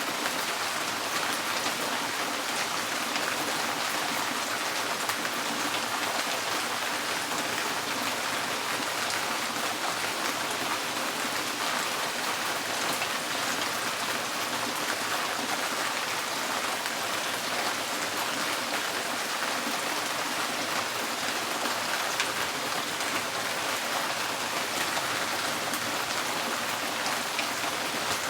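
Rain drumming steadily on a tin roof, a dense even patter of many drops.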